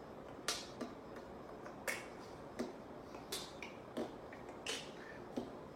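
Evenly spaced sharp clicks, about three every two seconds, alternating a bright high snap with a duller lower knock, like finger snapping kept to a beat.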